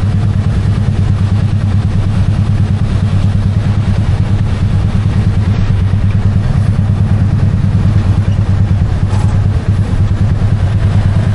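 Yamaha MT-15's single-cylinder engine running steadily at a low, even speed, a constant low throb with no revving.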